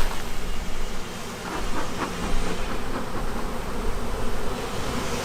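Honeybee swarm buzzing, a steady hum, with a few knocks about two seconds in as the bees are shaken down into the hive.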